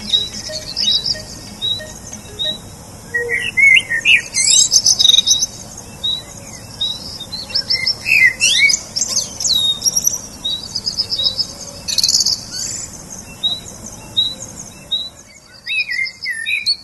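Songbirds chirping and singing: a steady series of short high chirps about twice a second, overlaid by bursts of rapid trills and sweeping whistled phrases from more than one bird.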